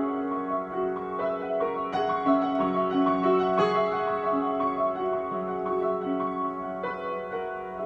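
Piano being played in a slow improvisation: held notes and chords that overlap and change about once a second.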